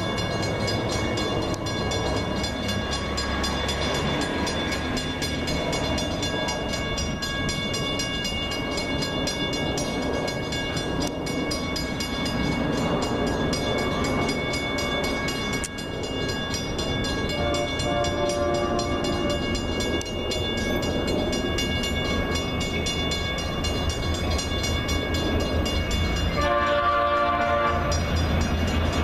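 Long Island Rail Road train running through the station with a steady rumble and whine, its horn sounding briefly about two-thirds of the way in and again, more strongly, near the end.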